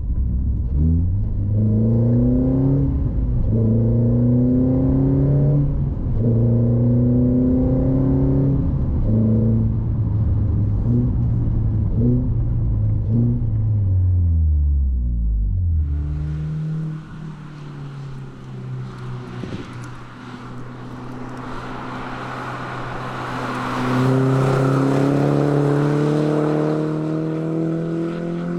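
Renault Sandero RS's 2.0-litre four-cylinder engine accelerating hard through the gears, its pitch climbing and dropping back at each upshift several times, then falling away as the car slows. About halfway through the sound changes suddenly to a quieter engine note with wind and road hiss, which climbs again near the end as the car accelerates.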